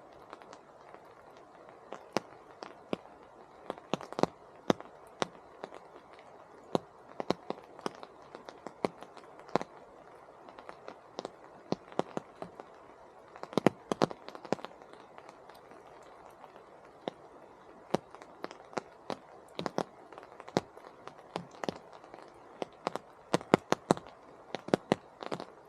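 Rain in a temperate rainforest: a steady soft patter with many irregular, sharp drips landing close by.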